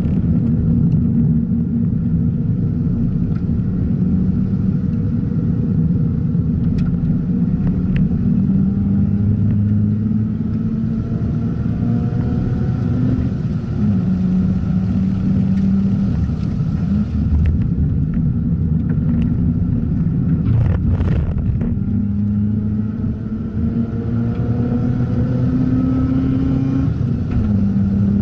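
Mazda RX-8's two-rotor Renesis rotary engine driven hard around a race track, its note rising and dropping again and again through the gears over a steady low rumble. A couple of short knocks sound about two-thirds of the way through.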